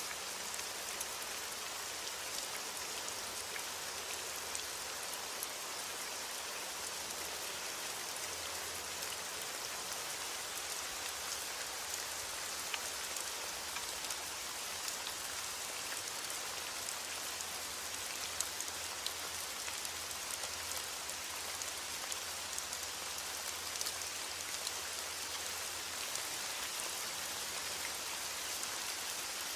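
Heavy rain on a window: a steady hiss with many small scattered drop ticks.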